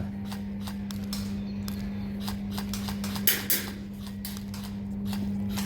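Airsoft guns firing during close-quarters play: scattered sharp cracks and clicks at an irregular pace, with a louder burst a little past three seconds in, over a steady low hum.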